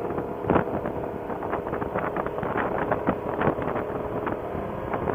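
Motorcycle engine running steadily at road speed, with wind buffeting the rider's microphone in irregular gusts.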